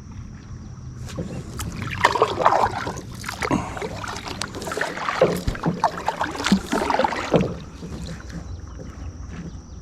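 Kayak paddle strokes splashing and dripping in the lake water: an uneven run of strokes starting about a second in and stopping after about seven seconds, over a low steady rumble.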